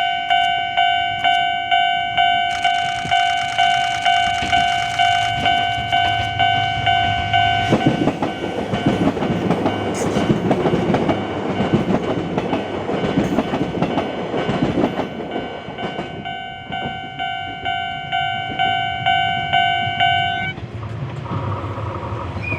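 Japanese level-crossing warning bell clanging about twice a second. A 185-series electric train runs past over the rails through the middle and drowns it out. The bell stops suddenly near the end.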